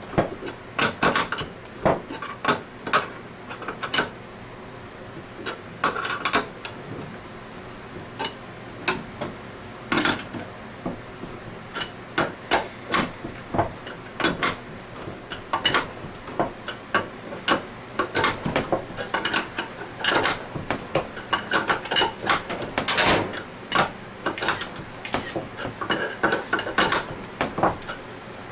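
Irregular metal clicks and clacks from hand tools turning a threaded bearing puller, straining to draw the two bearings out of a scroll pump a thread at a time. The clicks come in short clusters with brief pauses between strokes.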